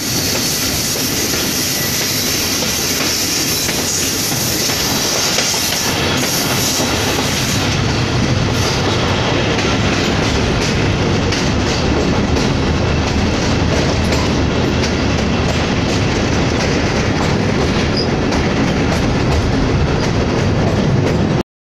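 Passenger train running on the rails, heard from aboard: a steady heavy rumble, with a high hiss for the first six seconds or so. From about eight seconds in the wheels click over rail joints in a quick run as the train crosses a steel truss bridge.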